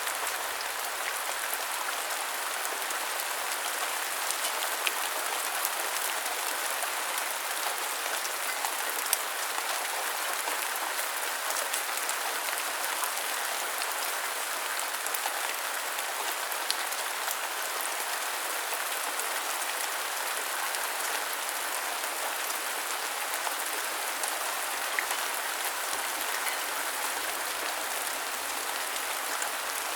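Steady rain falling, an even hiss of rainfall with scattered sharp drop ticks.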